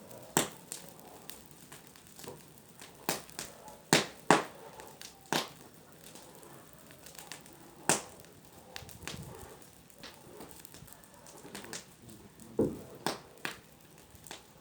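Bonfire burning, with irregular sharp pops and cracks from the burning wood and brush, the loudest a pair about four seconds in and another near eight seconds.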